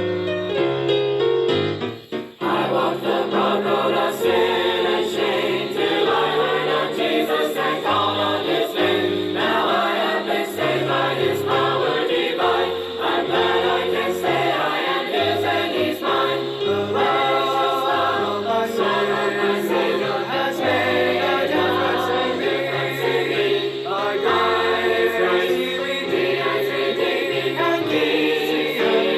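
Gospel song sung by a group of voices, with piano. Music runs throughout, with a brief drop about two seconds in before the singing fills out.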